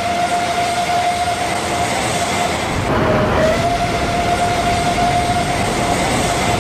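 Train running, a dense rumble with a steady high tone on top that dips briefly about three seconds in.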